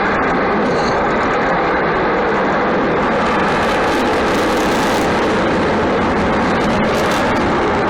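Avro Vulcan delta-wing bomber's four Rolls-Royce Olympus turbojets running in flight, a loud, steady jet rumble.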